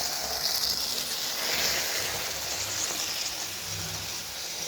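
N gauge model train running along the track, a steady hissing rush of its small motor and wheels that swells slightly early on.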